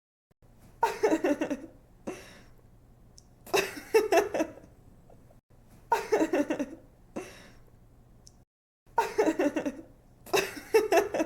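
A young woman giggling in five short bursts of quick, high-pitched ha-ha pulses, spaced about two and a half seconds apart.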